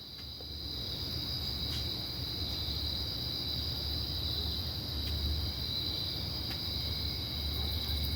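Crickets trilling steadily in a high, continuous drone, over a low steady rumble.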